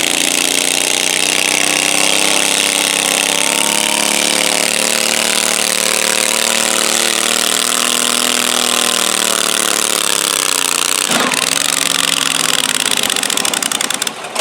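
Stock garden pulling tractor's engine running flat out under heavy load as it drags the sled, its pitch sagging a little toward the end. About eleven seconds in the engine note drops away suddenly as the tractor comes to a stop.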